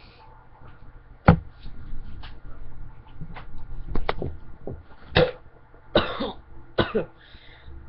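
A man coughing and gagging over and over, with several harsh hacking coughs about a second apart, the first one the loudest. He is retching on a mouthful of hard dry dog food.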